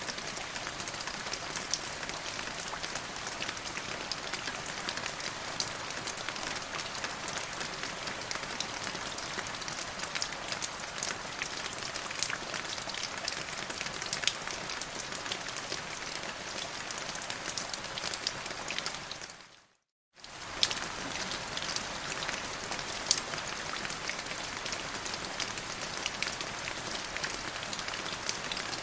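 Steady rain falling, a dense patter of drops with an occasional louder single drop. About twenty seconds in it fades out to silence for under a second and comes straight back, where the recording is looped.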